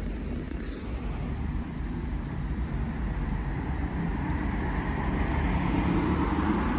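A motor vehicle running: a steady low engine rumble with road noise, getting slightly louder in the second half.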